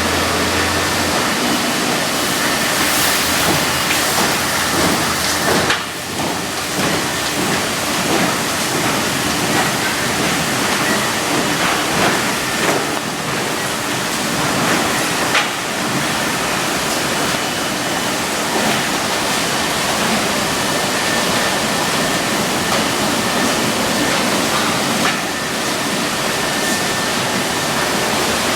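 Automatic car wash spraying water over a car: a loud, steady rush of water and machinery.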